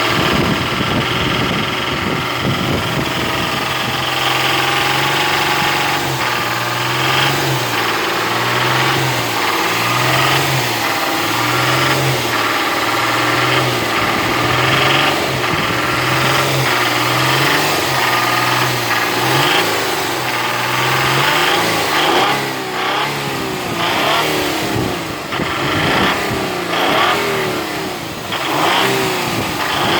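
Nissan VQ35DE 3.5-litre V6 running and being revved up and down repeatedly, with a knock that the owner places in the top of the engine. The short knocks come more often in the second half.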